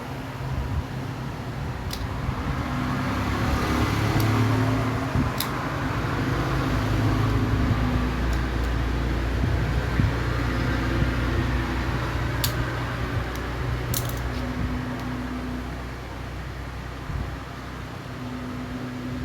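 A steady mechanical whir with a low hum that shifts a little in pitch, and a few sharp clicks.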